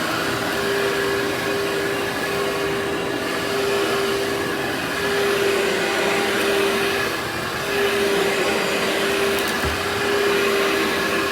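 Workhorse vacuum cleaner running continuously: a steady motor whir with one clear held tone, its loudness swelling and dipping slightly.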